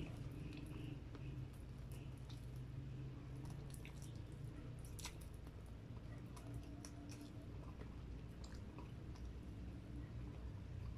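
Close-up chewing of a mouthful of fried chicken and rice, with scattered small wet mouth clicks and smacks over a low steady hum.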